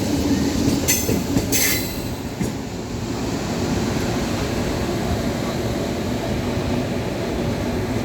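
Freight train rolling past with a steady rumble of wheels on the rails. Two brief high-pitched wheel squeals come about a second in and again half a second later.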